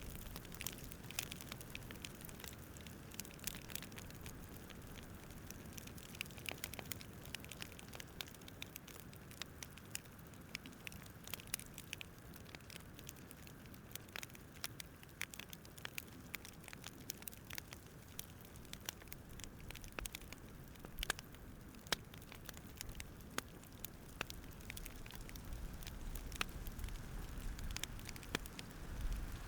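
Campfire crackling: irregular sharp pops and snaps over a low, steady hiss, with a low rumble swelling near the end.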